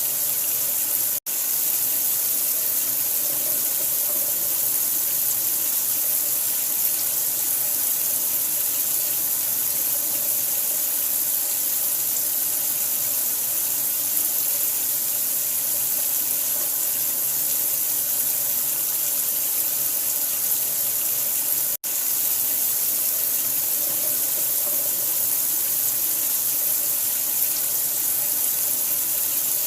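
Water running steadily from a tap, a constant bright hiss with no change in flow. It cuts out for an instant twice, about a second in and again about 22 seconds in.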